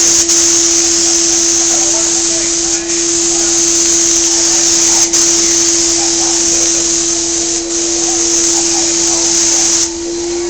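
Paint-spraying equipment running: a steady motor whine under a loud, high, even hiss of spray. The hiss cuts off near the end while the whine carries on.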